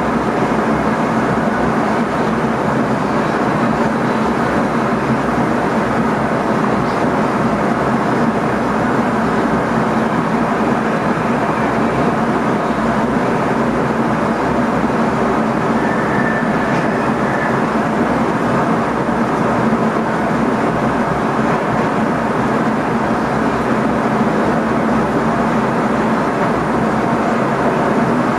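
Steady running noise heard inside the driver's cab of an NS ICM (Koploper) electric multiple unit under way: a continuous rumble of the train on the rails with a low even hum.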